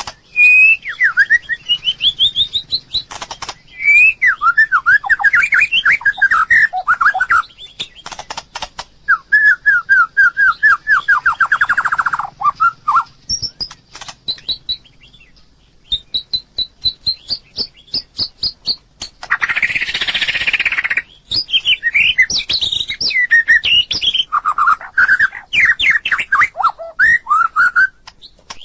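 White-rumped shama singing: bursts of fast, varied whistled phrases, many sweeping quickly up and down in pitch. There is a harsh, raspy note about twenty seconds in, and short sharp clicks between phrases.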